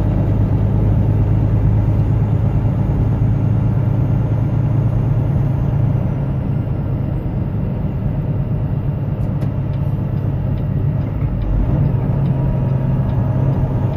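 Truck engine running steadily while driving on a snowy road, heard from inside the cab with a constant hum of road noise; the engine note eases off a little about six seconds in and picks up again near the end.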